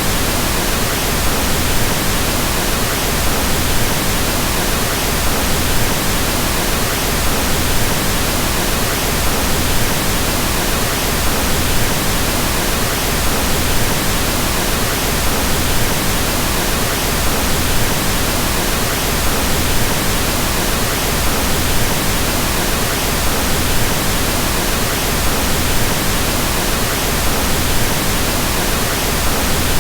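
Pink noise: a steady, unchanging hiss across all pitches, with more weight in the low end than white noise.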